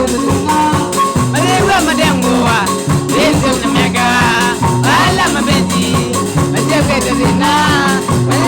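Live band music: a repeating bass line, a fast steady beat and a melodic lead line that bends up and down in pitch.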